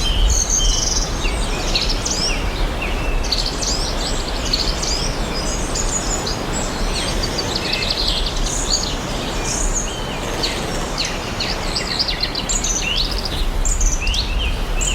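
Several forest birds chirping and singing at once, with quick high chirps and short trills overlapping one another, over a steady rushing background noise with a low rumble.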